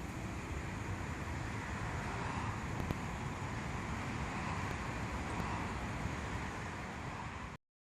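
Pool jet vacuum running, a steady rushing of water and motor noise that cuts off suddenly near the end.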